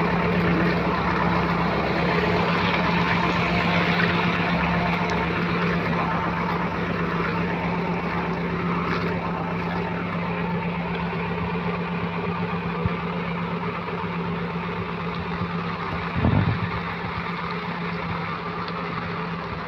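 Steady hiss of rain mixed with a vehicle engine's low steady hum, slowly fading, with a brief louder swell about sixteen seconds in.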